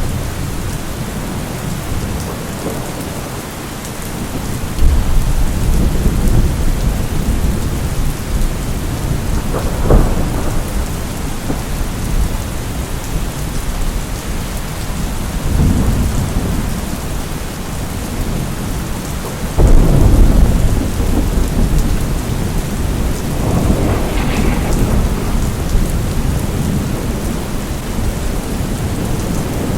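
Steady rain with repeated rolls of thunder. A low rumble swells about five seconds in, a sharp thunderclap comes near ten seconds, and another loud rumble breaks in about twenty seconds in, with smaller rolls between.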